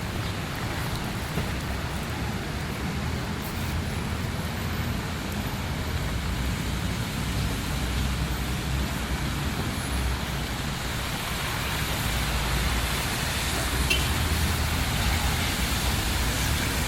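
Heavy rain hissing steadily, with a low rumble of road traffic underneath that grows somewhat louder in the second half.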